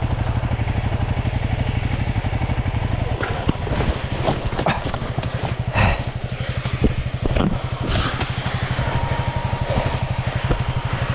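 Honda CRF300L single-cylinder dirt bike engine running at low revs in a steady pulse as it is ridden over a rocky trail section. Scattered knocks and clatter from rocks and the bike between about three and eight seconds in.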